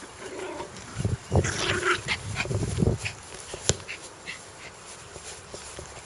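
A dog growling in several short bouts, loudest between about one and three seconds in, with a single sharp click a little later.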